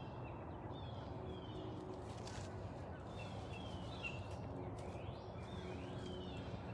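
Faint outdoor ambience with small birds calling: short, repeated high chirps that glide downward.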